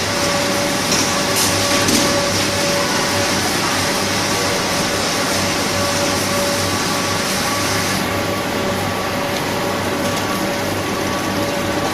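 Automatic packing scale machinery running steadily: a constant mechanical noise with a steady whine and low hum. There are a few faint clicks a little after a second in, and the high hiss drops away about two-thirds of the way through.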